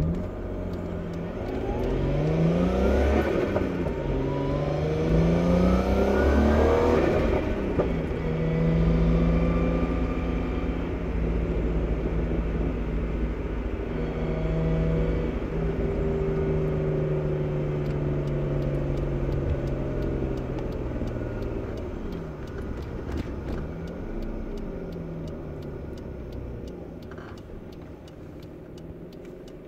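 Nissan Skyline R32's engine and exhaust heard from inside the cabin. The revs climb and drop twice in the first eight seconds as it pulls through the gears, then hold a steady cruise. Over the last several seconds the engine note dips and rises and grows quieter as the car slows.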